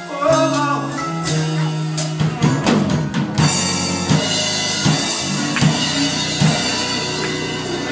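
Live band playing without vocals: a drum kit with fills and cymbal crashes over held chords and bass, building to the end of a song.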